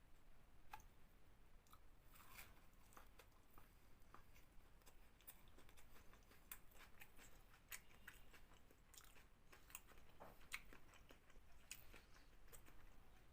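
A person chewing bread and omelette: faint, irregular mouth clicks and soft crunches.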